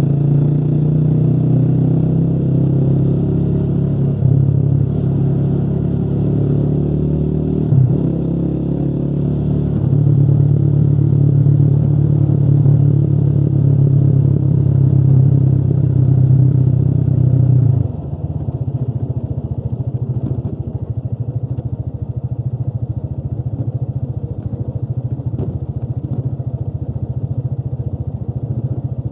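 Motorcycle engine running while riding. There is a brief dip about eight seconds in, and it runs louder from about ten seconds. About eighteen seconds in it drops abruptly to a quieter, lower, pulsing note.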